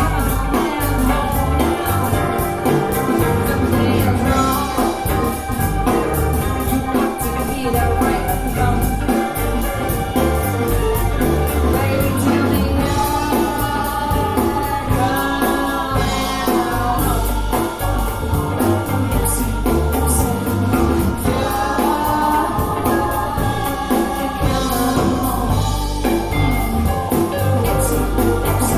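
A song with sung vocals over a band and a steady beat, played back through Bowers & Wilkins 707 S2 bookshelf speakers for a listening test.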